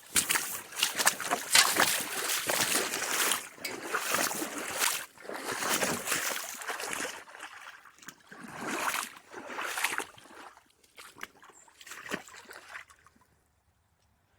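Footsteps of a person walking, each step a swishing rustle with small clicks, coming in uneven swells about every second or two. They thin out and stop about thirteen seconds in.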